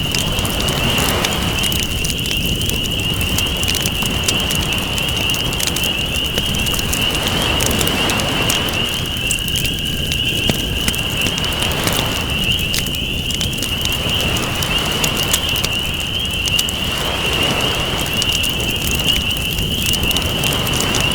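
Campfire crackling steadily, with ocean waves washing in and out every few seconds and a steady high-pitched buzz running underneath.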